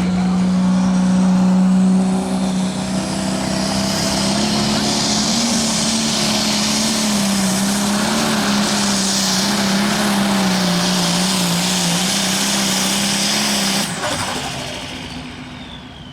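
Outlaw pro stock pulling tractor's engine running at high, steady revs under load, its pitch wavering slightly, with a loud rush of noise over it. About fourteen seconds in it drops off and fades away.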